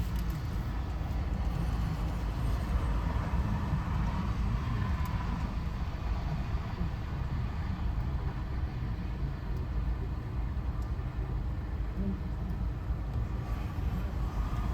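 A long Canadian Pacific coal train passing, a steady low rumble that holds at an even level throughout.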